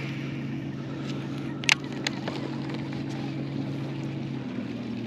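A boat motor running steadily with an even hum that shifts to a different pitch about four seconds in, as if changing speed. Two sharp clicks come about two seconds in.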